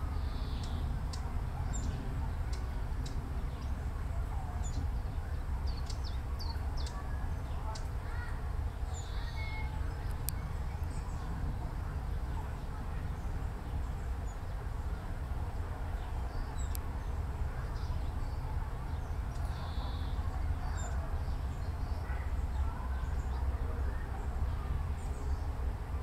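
Steady low rumble with faint, short, high chirps and calls from small birds scattered throughout.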